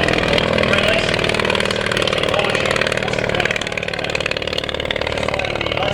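The tiny 398cc ABC flat-twin motorcycle engine of an English Electric Wren light aircraft, running with a fast, steady, buzzing chainsaw-like beat that eases a little in the second half.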